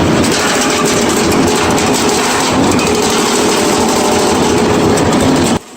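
Loud machinery running steadily: a dense mechanical din with a steady hum under it, cutting off suddenly near the end.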